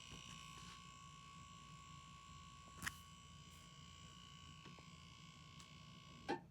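Near silence: faint room tone with a thin steady high tone and a couple of faint clicks.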